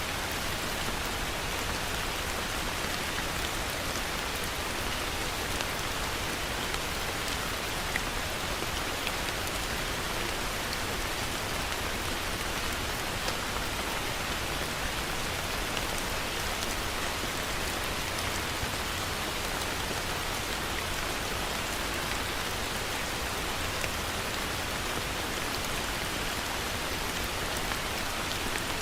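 Heavy rain falling steadily: a dense, even hiss of rain on surfaces with faint individual drop ticks scattered through it.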